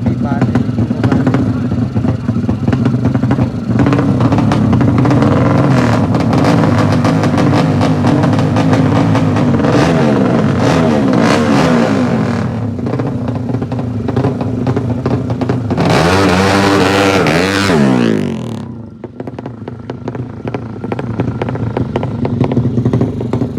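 Racing motorcycle engines running hard and revving, with pitch swoops as bikes pass; the sound drops away about three-quarters of the way through.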